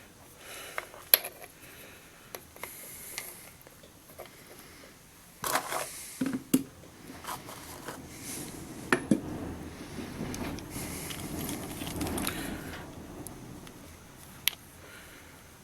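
Metal hand tools being handled at the engine: scattered light clicks and clinks, with a short rattle about five and a half seconds in and several seconds of soft scraping and rustling in the middle.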